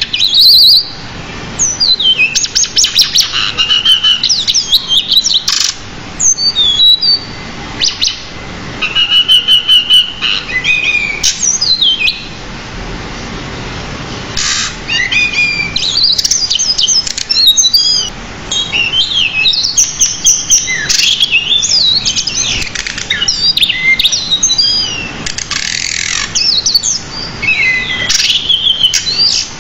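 Pied bushchat singing continuously in a rapid, varied stream of high chirps, whistled notes and fast repeated-note trills. The song breaks off briefly about twelve seconds in and then resumes.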